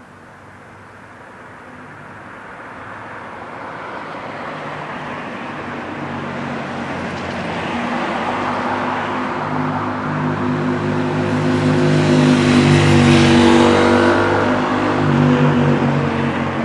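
Motorcycle engine approaching and growing steadily louder for about twelve seconds, loudest about three-quarters of the way through, with a second surge shortly before the end.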